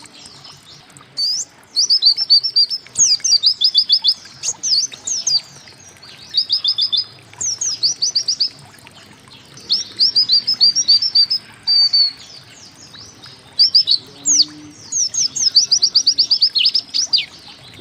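A pleci (white-eye) singing in rapid volleys, each a quick string of short, high, downward-slurred notes, repeated with brief pauses between them. The longest volley comes near the end.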